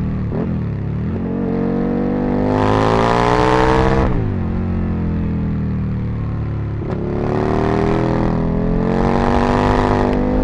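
Aprilia RSV Mille's V-twin engine under way on the road, revving up under acceleration. The revs climb steadily, drop sharply about four seconds in, then climb again from about seven seconds in.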